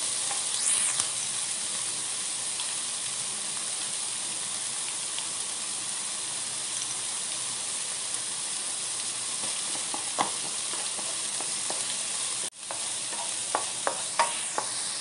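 Chopped onions and carrots sizzling in oil in a nonstick frying pan, a steady hiss. A wooden spatula stirring gives a few light knocks near the end, and the sound cuts out for a moment about twelve and a half seconds in.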